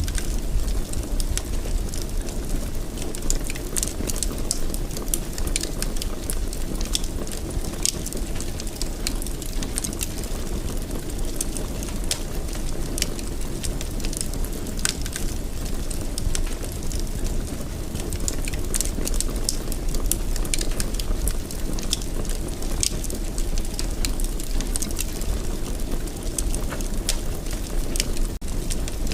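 Wood fire in a fireplace crackling, with frequent irregular pops and snaps over a steady low rumble of the burning flames. The sound cuts out for an instant near the end.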